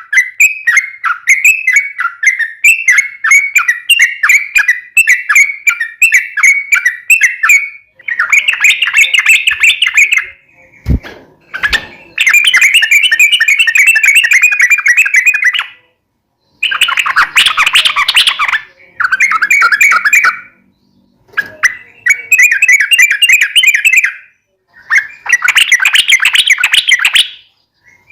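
Yellow-vented bulbul (trucuk) singing in rapid chattering strings of notes: unbroken at first, then in phrases of two to three seconds with short pauses. A brief low thump about eleven seconds in.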